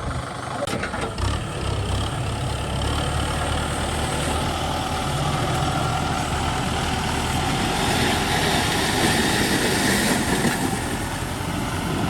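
Kubota ZT 155 DI single-cylinder diesel engine of a hand tractor running steadily, with a few sharp knocks about a second in.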